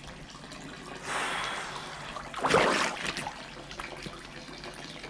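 Water trickling steadily at a small mountain stream near its source, with a brief louder noise about two and a half seconds in.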